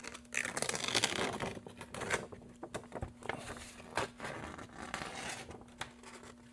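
A used paper sheet being torn off a body-filler mixing pad and crinkled up, a run of irregular rustling and tearing with small clicks.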